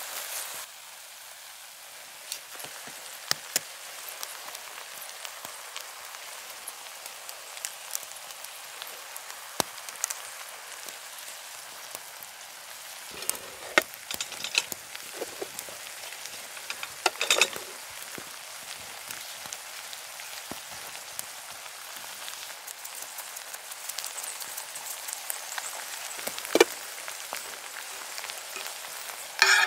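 Hash browns, bacon and eggs sizzling in a pan over a wood-burning Firebox stove: a steady frying hiss with scattered crackles. A few louder clinks and knocks of handling stand out, around the middle and again near the end.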